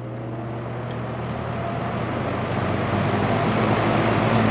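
Vintage Kel Aire Model 7000 box fan with a three-speed McMillan motor starting up on medium speed: a steady low motor hum under a rush of air that grows steadily louder as the blade comes up to speed.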